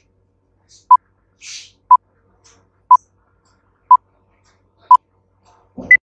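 Quiz countdown timer beeping: five short identical beeps a second apart, then a final higher-pitched beep with a low thump marking time up.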